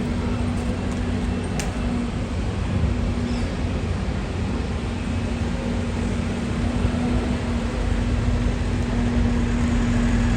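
Steady city street noise: traffic and a running engine with a constant low hum, and a single sharp click about one and a half seconds in.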